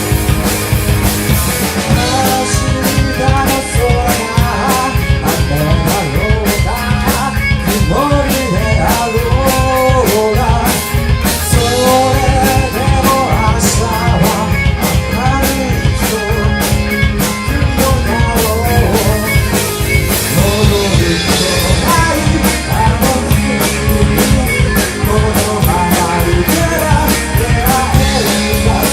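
Live rock band playing a song, with a drum kit keeping a steady beat under a wavering lead melody line.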